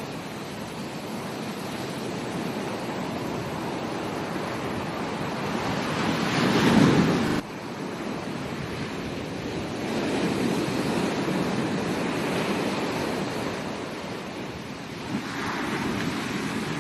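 Ocean surf washing onto a beach, rising and falling in waves. The loudest wave surges about six seconds in and cuts off suddenly just after seven seconds, with softer swells following.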